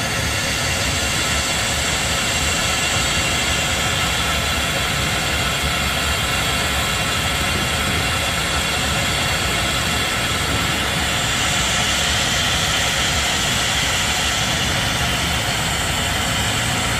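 A steady idling engine rumble with an even hiss, unchanging throughout.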